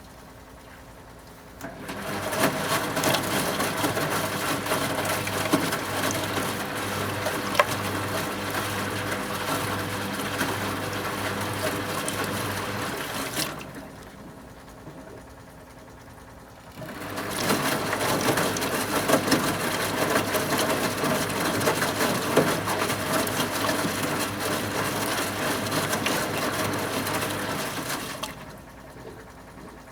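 A 1974 Zoppas Superautomatic 242 washing machine's motor turning the drum with wash water and laundry sloshing. It runs for about twelve seconds, stops for about three, then runs again for about eleven: the on-off tumbling rhythm of a wash cycle.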